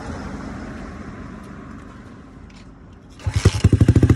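150cc dirt bike engine, freshly tuned with a Nibbi racing carburetor, kick-started: it catches on one kick about three seconds in and runs at a fast, even idle with rapid exhaust pulses.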